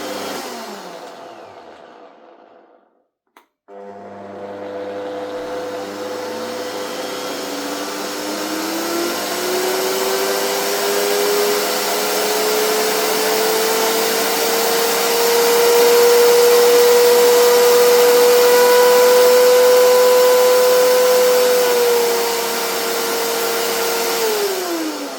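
Parkside PDM 600 C3 wood lathe's electric motor: it runs down, a single click sounds about three seconds in, then it starts again. Its whine climbs steadily in pitch over about ten seconds as it speeds up, holds at top speed, and winds down near the end.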